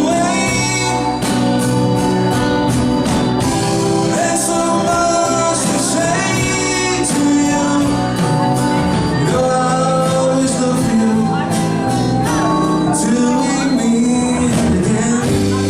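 A live band playing, with male and female voices singing over the instruments and drums.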